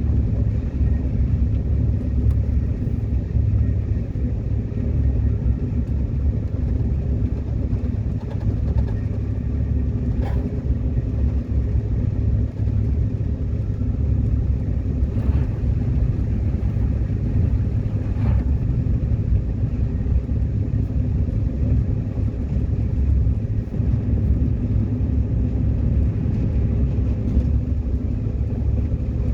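Steady low rumble and running noise inside the cabin of a moving high-speed train, with a few faint clicks scattered through.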